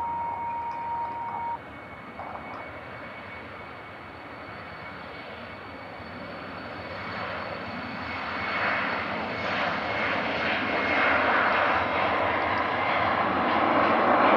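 Jet airliner's engines: a broad rushing noise that grows steadily louder over the second half as the aircraft draws near. A steady high tone cuts off suddenly about a second and a half in.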